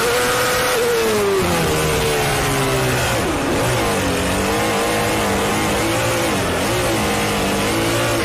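Race car engine running at speed, its note falling and dipping briefly a couple of times as the throttle changes.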